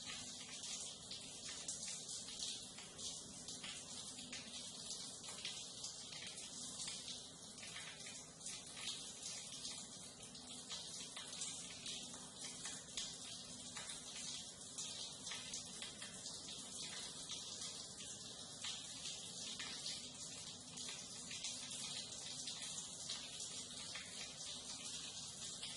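Water running and splashing in a sewer or drainage channel: a steady hiss of falling and flowing water with small irregular splashes.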